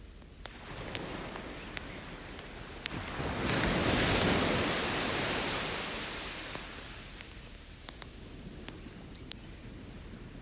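Campfire crackling with scattered sharp pops, while an ocean wave rolls in. The surf swells about a third of the way in and slowly fades away over the next few seconds.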